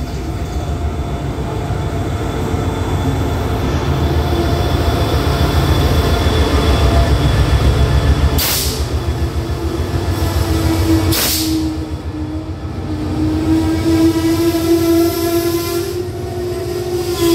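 SRT QSY-class diesel-electric locomotive running loudly as it draws a passenger train past, with two short bursts of hiss as it goes by. As the coaches roll past, a steady drawn-out squeal takes over and slowly rises in pitch.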